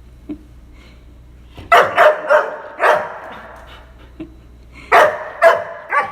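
Golden retriever barking in short bursts: four barks about two to three seconds in, then three more near the end. It is complaining, demanding to be let inside rather than sleep on the porch.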